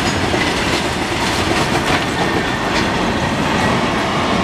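Steel wheels of BCNA covered freight wagons and the guard's brake van rolling past on the track: a steady, loud rumble with clickety-clack clatter, the tail end of the freight train going by.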